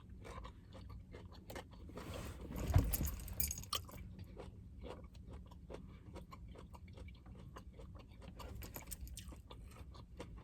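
Close-miked chewing of a mouthful of teriyaki chicken, steamed rice and greens (cabbage, kale and broccoli): wet mouth clicks throughout, with a louder, noisier stretch about two to three seconds in.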